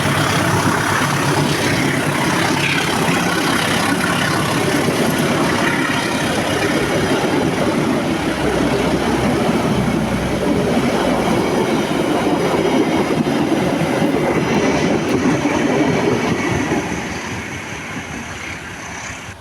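A train running past on the track, with the loud rumble and rattle of its wagons rolling by, dying away over the last few seconds.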